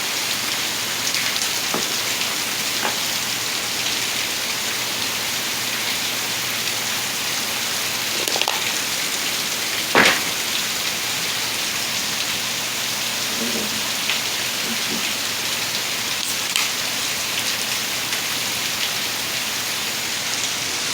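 Steady rain falling, with scattered louder drops and one sharp tap about halfway through.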